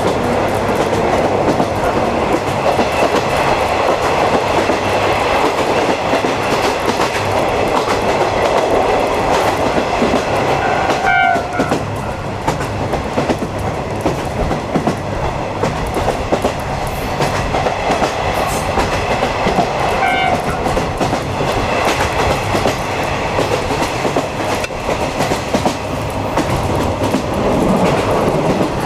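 Ride noise inside a 50-series passenger coach hauled by a DD51 diesel locomotive: a steady rumble of wheels on rail with clickety-clack over the rail joints. Two short tones sound about 11 and 20 seconds in.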